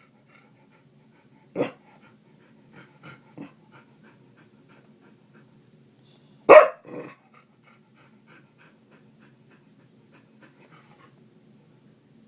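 Small dog giving two short sharp barks, about a second and a half in and again about six and a half seconds in, each followed by a few softer huffs, over a faint low steady rumble.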